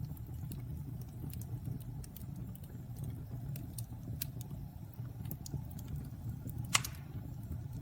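Wood fire crackling in a fireplace: scattered small pops and snaps over a steady low rumble, with one louder pop near the end.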